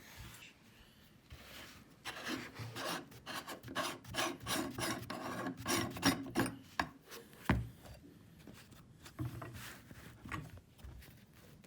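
Meat grinder working something through, with a run of rhythmic rasping, scraping strokes, about three a second, and a single sharp knock about halfway through before the scraping thins out.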